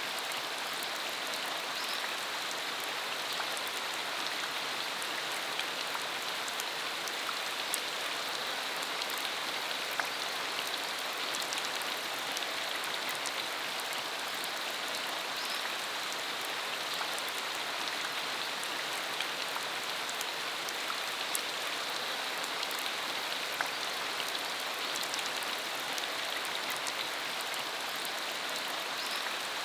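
Steady rain falling on a dirt road, a constant even hiss dotted with many fine individual drop ticks.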